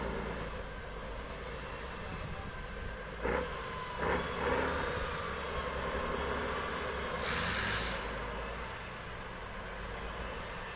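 Heavy off-road truck's diesel engine running steadily, with two short knocks about three and four seconds in and a brief hiss about seven seconds in.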